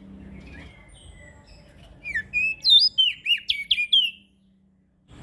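A prenjak daun singing: a few soft high twitters, then a quick run of loud, sweeping whistled notes about two seconds in that ends after about two seconds, over a low steady hum.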